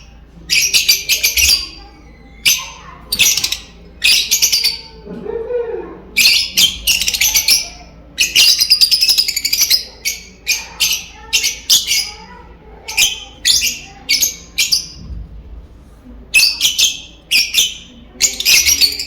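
Lovebirds chattering: repeated bursts of rapid, high-pitched chirps, one after another with short gaps between them.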